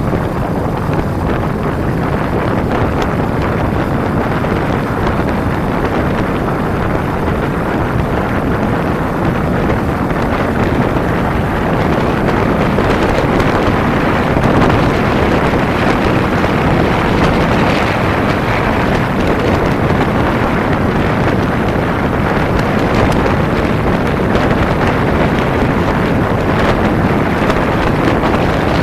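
Steady wind rushing over the microphone of a camera on a moving Kawasaki Ninja 250 motorcycle, mixed with the bike's engine and road noise, growing a little louder about twelve seconds in.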